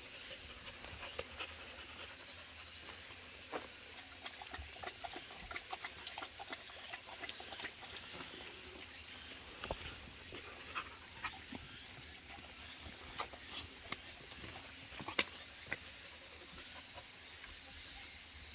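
A dog moving about close by: faint scattered clicks and scuffs, busiest in two stretches, over a steady hiss.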